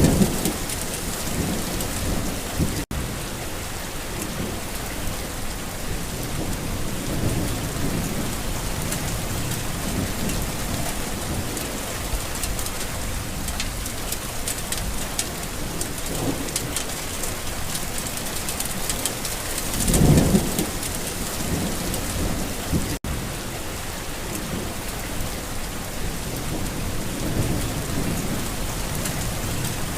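Steady rain falling, with rolls of thunder rumbling at intervals; the loudest roll comes about two-thirds of the way through. The rain cuts out for an instant twice.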